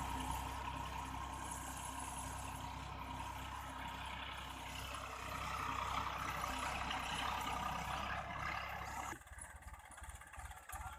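Tractor engine running steadily, then abruptly quieter about nine seconds in.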